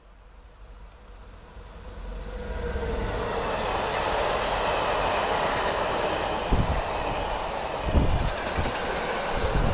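Freight train behind an electric locomotive passing close by: its rumble grows quickly over the first two or three seconds as the locomotive arrives, then becomes the steady rolling noise of loaded flat wagons on the rails, with a few heavy wheel knocks near the end.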